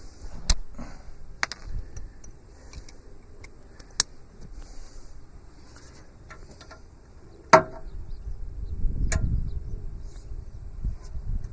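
A 15 mm wrench being worked on a steel bolt of a Kubota B7100's loader/backhoe sub-frame: scattered metal clicks and knocks, the loudest about seven and a half seconds in, followed by a low rumble.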